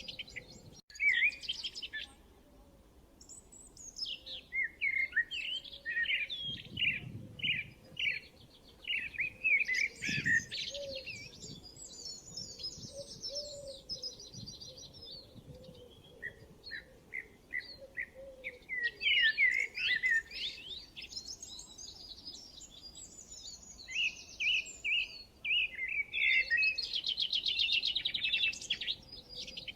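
Songbirds chirping and singing, several overlapping calls with quick trills and short chirps, busiest at the start and again near the end, with brief lulls between.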